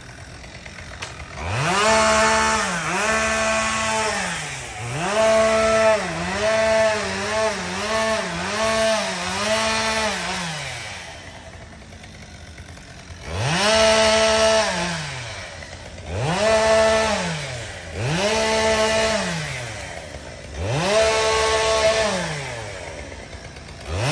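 Two-stroke chainsaw revved to full throttle again and again, each time dropping back to idle. Two long bursts in the first half, the second with a run of quick throttle blips, then a short idle lull and four more separate revs in the second half.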